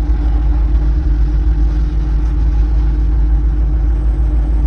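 Steady low rumble of a vehicle driving, with a constant hum running through it.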